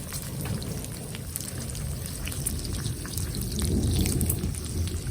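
Heavy rain falling, with many raindrops pattering close by, and a low rumble of thunder that swells about four seconds in.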